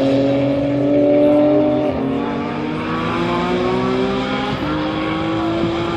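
GT race car engine accelerating hard, its pitch climbing and dropping sharply at two upshifts, about two seconds in and again near the five-second mark.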